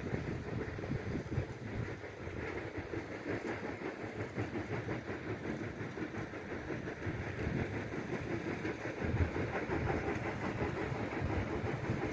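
Steady rumble of a vehicle travelling along a highway: tyre and wind noise.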